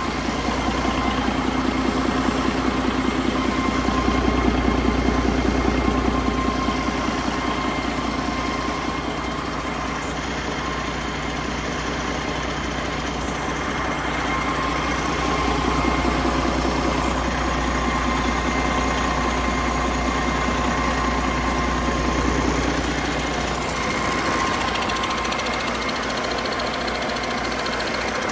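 2016 Detroit Diesel DD16 15.6-litre inline-six diesel engine running steadily, getting louder for a few seconds twice.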